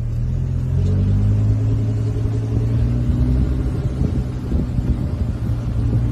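Car engine running at a steady pace, a low, even hum with rumble underneath.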